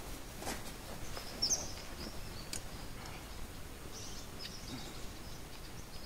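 A small bird giving several short, high chirps over a steady low background noise.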